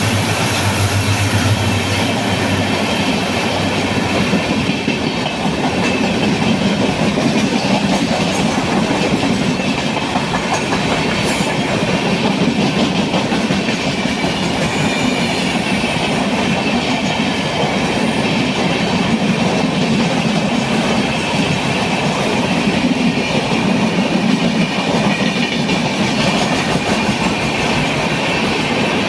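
An Indian Railways express train's coaches rushing past at full speed, with wheels clattering over the rail joints in a continuous loud rumble.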